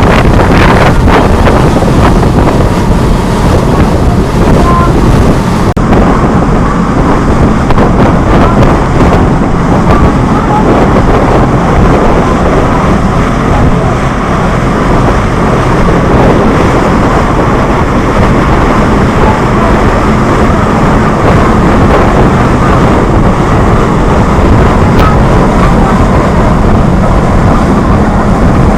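Wind buffeting the microphone over the steady drone of a tour boat's engine and the rush of water.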